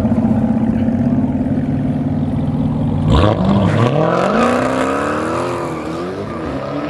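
Race car engines held at steady revs on the line, then launching hard about three seconds in and accelerating away, engine pitch climbing and dropping through gear changes as they pull off and fade.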